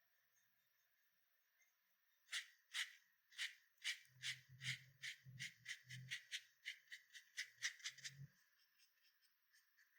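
A run of about twenty short, sharp taps beginning about two seconds in and stopping about two seconds before the end, coming faster as they go, with a low hum under the later ones.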